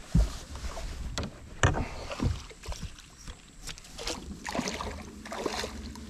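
Irregular knocks and bumps in a small fishing boat, over a steady low rumble.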